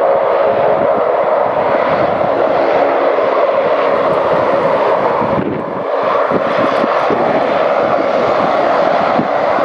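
Saab 340's twin General Electric CT7 turboprop engines running loud and steady, with a held tone over the noise and a brief dip in loudness about five and a half seconds in.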